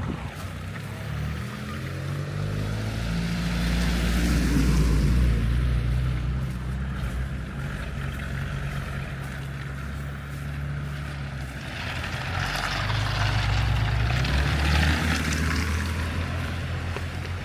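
Street traffic on a snow-covered road: vehicle engines running with a hiss of tyres on snow and slush, swelling as cars pass about four seconds in and again near the end.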